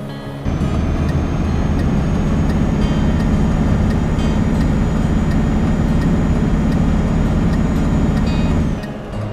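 DAF XF 105 truck's diesel engine running loud, with a steady high whine over the rumble; it cuts in about half a second in and stops suddenly near the end.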